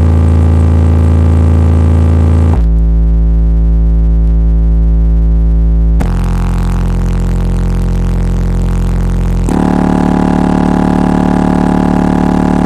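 Loud bass-heavy electronic music played through an 18-inch Digital Designs 9518 car subwoofer. Long held bass notes change pitch about every three to four seconds.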